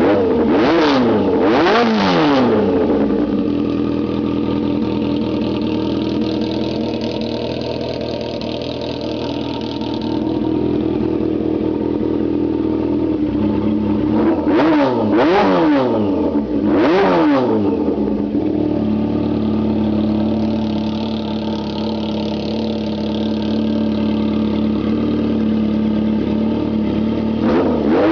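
1985 Yamaha Maxim X inline-four motorcycle engine through an open 4-into-1 exhaust, idling and being blipped: two quick revs near the start and three more around the middle, each rising and falling back to idle, then the revs lift again near the end. Loud and unmuffled.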